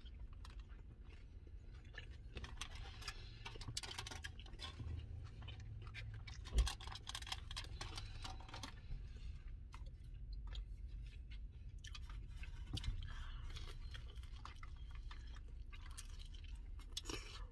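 Close-up chewing and crunching of a crispy fried taco, with many small crunches over a steady low rumble. One sharp knock comes about six and a half seconds in.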